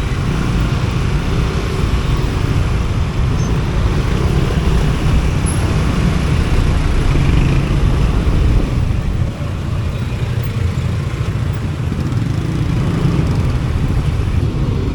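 Road traffic noise heard from a vehicle in slow city traffic: a steady low engine and road rumble, easing off a little about nine seconds in.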